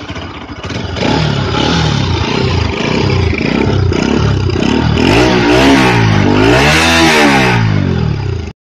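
Bajaj Pulsar 200 motorcycle's single-cylinder engine revved while stationary: a run of quick throttle blips, then two longer revs that rise and fall in pitch. The sound cuts off abruptly near the end.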